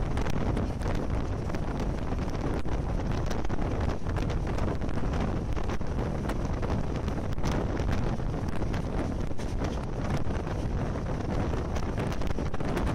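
Wind buffeting the microphone at an open train window over the steady rumble of the moving train, with scattered faint clicks.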